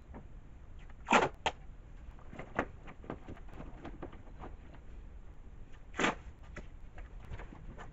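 Masking tape being pulled off the roll in a few short rips, the loudest about a second in and another around six seconds in, over a low shop background.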